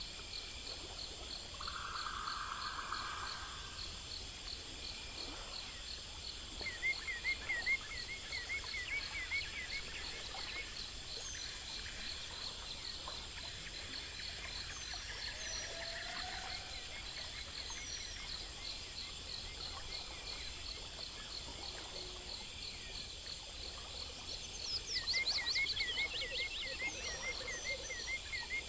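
Outdoor chorus of insects trilling steadily in several fast pulsing rhythms. Twice, a run of quick repeated chirping calls joins in: once around 7 to 10 s, and again, louder, from about 25 s in.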